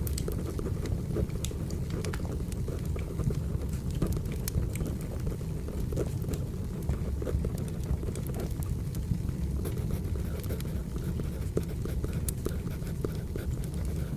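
Wood fire burning: a steady low rumble with scattered sharp crackles and pops throughout.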